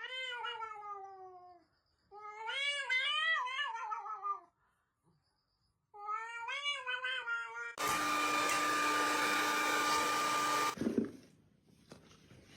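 A cat meowing three times in long, drawn-out calls, the second one wavering up and down. About eight seconds in, a loud steady noise with a hum in it starts, lasts about three seconds and cuts off suddenly.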